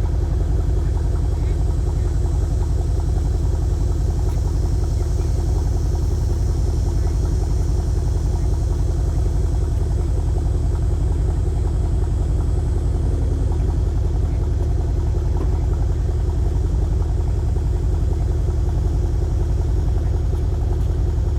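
Mercedes-AMG engine idling steadily with a deep, even rumble, soon after a cold start after sitting about two weeks.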